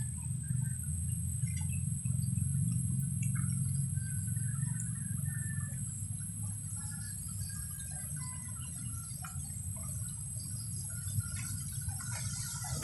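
Birds chirping with short, scattered calls over a steady high-pitched insect drone, with a constant low rumble underneath that is the loudest part.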